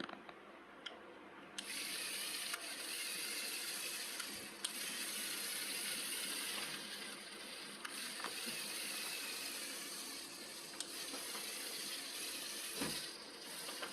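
Small motor and gear-and-belt drive of a homemade two-axle model tractor running on test, a steady mechanical whirr starting about a second and a half in, with a few sharp clicks.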